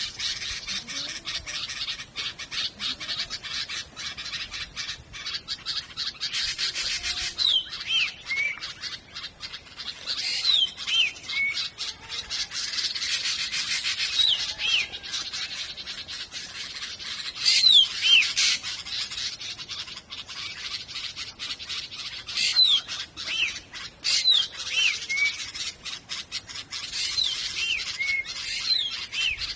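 Birds calling: dense, fast chattering throughout, with short falling whistled calls coming in small groups every few seconds.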